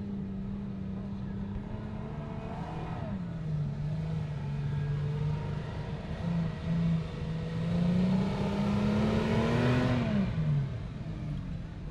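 Off-road vehicle engine pulling under load. Its pitch holds, drops about three seconds in, then climbs slowly with a growing rush of noise to its loudest point near the end, before dropping sharply as the revs fall.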